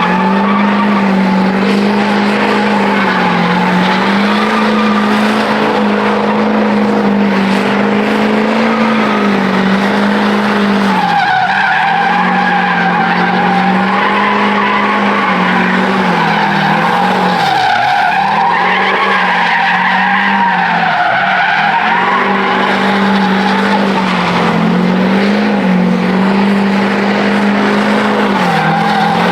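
Truck doing a burnout: engine held at high revs with a wavering note, and tyres spinning and squealing against the pavement, the squeal growing louder about a third of the way in.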